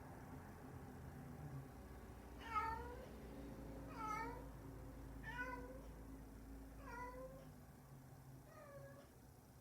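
Domestic cat meowing in a crying voice: five short calls, each dipping and rising in pitch, about a second and a half apart. The calls grow fainter toward the end.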